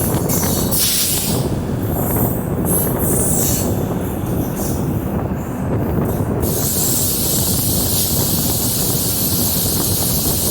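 Diesel electric multiple unit (DEMU) passenger train running along the track, with continuous wheel-and-rail running noise. High hiss comes and goes for the first six seconds or so, then holds steady.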